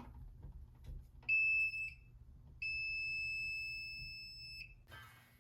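Non-contact voltage tester beeping with a steady high-pitched tone, twice: a short beep just over a second in, then a longer one of about two seconds that fades toward its end. The tester is reacting to a conductor that is not truly hot, which the electrician puts down to induction from a wire running parallel to a live one.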